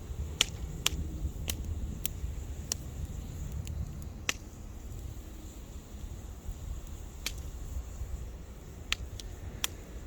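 Wood fire crackling: sharp, irregular pops and snaps from the burning wood, about a dozen in ten seconds, over a low rumble.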